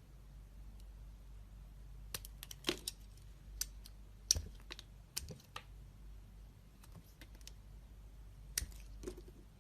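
Knife cutting into a bar of soap: sharp, crisp clicks and crackles in irregular clusters, the loudest about four seconds in.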